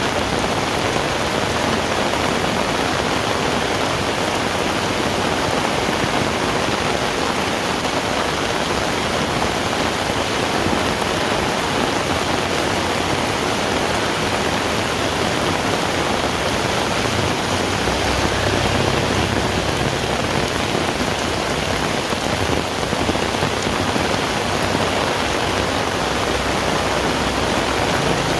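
Heavy rain falling in a steady, dense hiss. A low rumble comes and goes in the second half.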